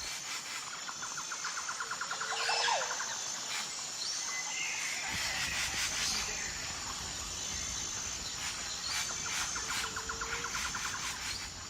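Rainforest ambience: birds chirping and calling, with two bouts of rapid trilling, over a steady high-pitched insect drone.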